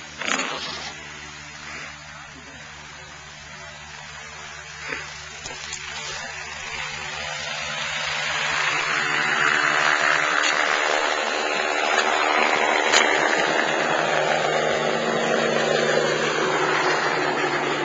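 Rescue helicopter growing louder as it comes in close, its rotor and engine noise building over several seconds and then holding, with the pitch of the noise sliding down near the end. A short knock just after the start.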